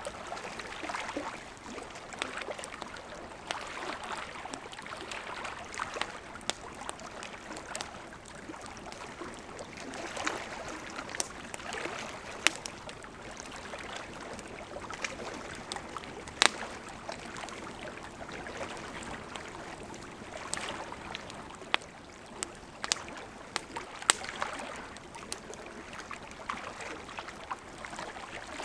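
Wood fire burning with a steady rushing hiss and irregular sharp crackles and pops, a few of them much louder than the rest.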